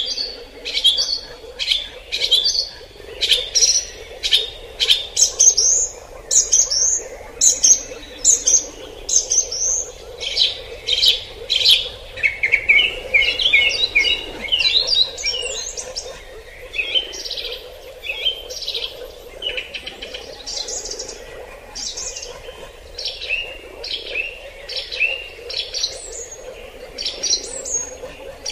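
Birds chirping in the tree canopy: a steady stream of short, high, sharp notes, several each second. About halfway through comes a run of quick, lower-pitched chattering notes. A faint steady hum lies underneath.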